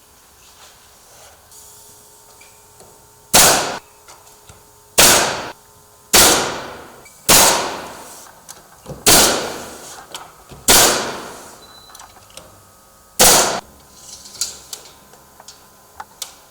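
Pneumatic nail gun firing seven single shots, one every one to two seconds, each with a short fading tail, as brick molding is nailed to a door frame.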